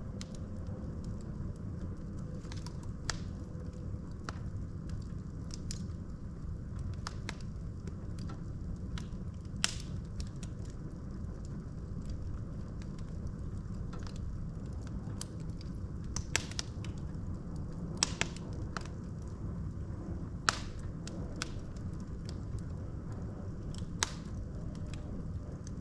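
Wood fire burning in a fireplace: a steady low rumble of flames with irregular sharp crackles and pops from the burning logs, a few louder snaps scattered through.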